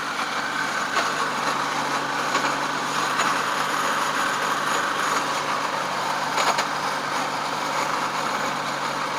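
VAZ-2108 engine idling with the clutch engaged, the gearbox giving a steady grinding noise with an occasional knock. The noise comes only while the clutch is released and goes when the pedal is pressed.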